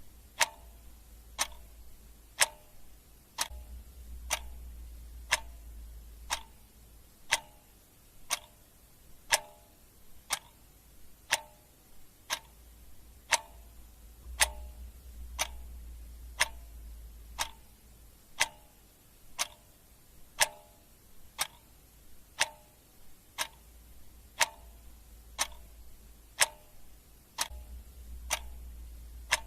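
Clock ticking steadily, about one tick a second, each tick a sharp click with a short ringing note.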